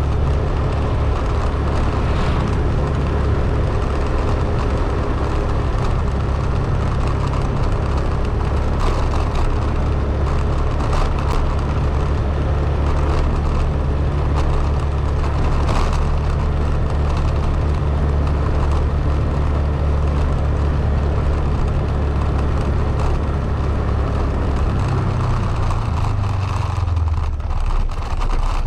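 Road vehicle driving: a steady low engine and road rumble under a constant haze of road and wind noise. Near the end the low rumble changes and eases off.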